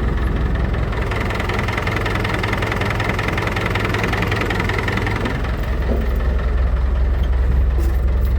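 David Brown 1490 tractor's four-cylinder diesel engine running steadily; about five and a half seconds in, its low note gets stronger.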